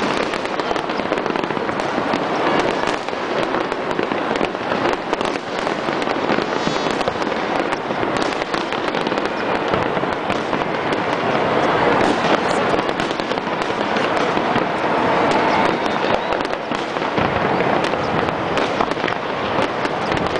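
Fireworks display going off continuously: a dense, unbroken run of pops, bangs and crackling.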